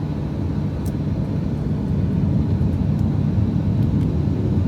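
Airliner cabin noise during the takeoff roll: a steady low rumble from the engines and the runway that grows louder about two seconds in as the engines come up to takeoff power.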